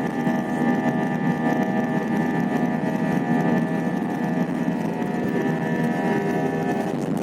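Airliner engines running during takeoff: a steady rush with a whine of several steady tones, which fades near the end.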